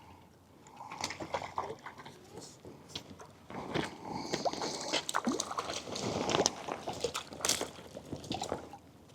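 A hooked trout splashing and thrashing at the water's surface as it is reeled in and landed: irregular sloshes and splashes mixed with sharp clicks, louder in the second half.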